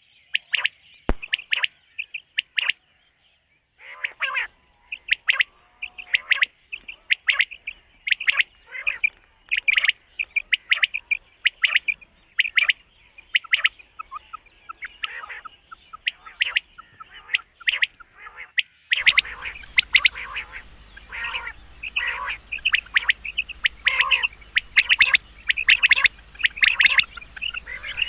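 Common quail calling over and over in quick short notes, with a brief pause about three seconds in. Past the middle a steady hiss and low hum come in beneath the calls.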